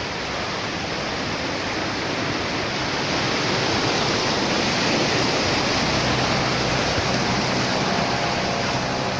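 Steady rushing of water on a flooded street, swelling a little around the middle, with a faint low hum joining in the last few seconds.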